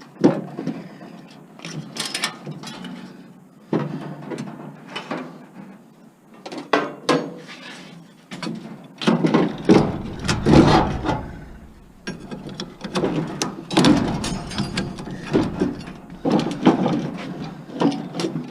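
Metal parts of a scrapped appliance clanking, rattling and scraping as the motor is pried and pulled at by hand to work it loose, in irregular knocks that come thicker and louder in the second half.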